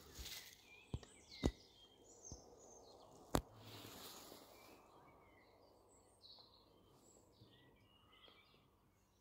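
A few sharp cracks in the first seconds, then faint songbirds chirping in the woods.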